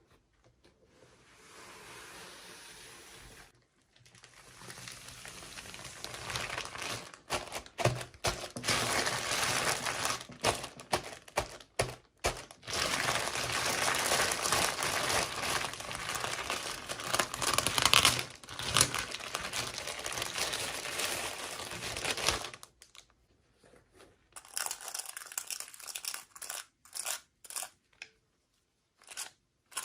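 Toy packaging being crinkled and torn open by hand: a long stretch of dense crackling rustle with sharp crackles. It thins out to a few separate rustles and clicks near the end.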